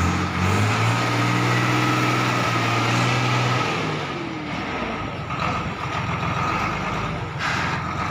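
Diesel engine of a YTO 1304 tractor running at a steady speed, then its revs dropping about four seconds in and settling into a rougher, lower running.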